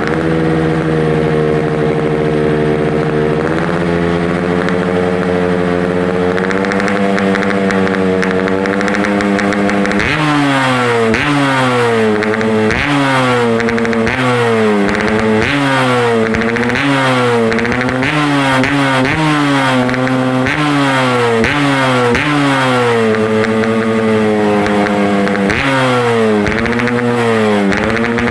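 Yamaha RX-King's single-cylinder two-stroke engine running through a homemade stainless-steel trumpet-style racing exhaust, held at a steady speed at first and then blipped over and over from about ten seconds in, each rev rising and falling back.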